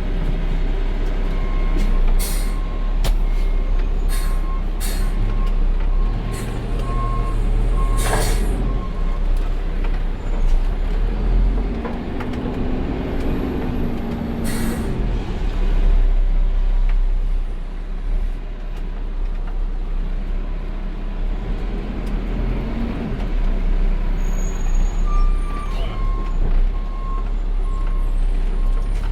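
Peterbilt 520 garbage truck running, with its air brakes giving several sharp hisses, the loudest about 8 and 15 seconds in. A back-up alarm beeps steadily for the first several seconds and again near the end.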